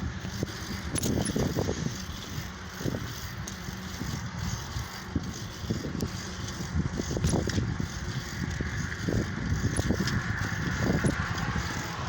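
Lowrider bicycle being ridden: a steady low rumble of wind and tyre noise, with irregular rattles and clicks from the bike.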